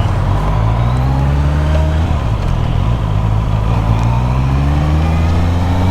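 Motorcycle engine pulling through the gears: its pitch rises, drops at a gear change about two seconds in, then climbs steadily again, over road and wind rush.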